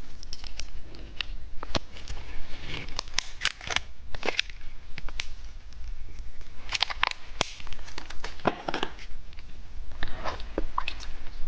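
Plastic packaging of a small jelly sweet being handled and opened: scattered sharp clicks and short bursts of crinkling.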